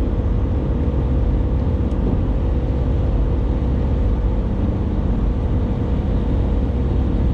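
Steady road and engine noise of a vehicle driving at highway speed, heard from inside the cabin, with a faint steady hum running under it.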